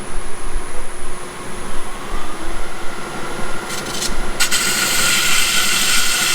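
Sandpaper rubbing against the rosewood bowl's bottom as it spins on a Laguna Revo 18|36 lathe, over a steady machine hum. About four seconds in, a louder steady hiss comes in.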